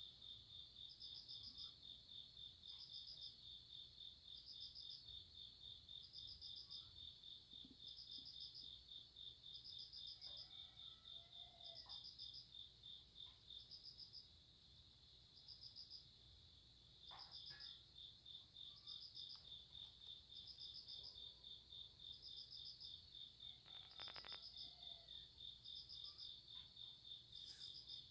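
Faint chorus of night crickets: one insect keeps up a steady, rapid pulsing trill, while a second, higher one chirps in short bursts about once a second.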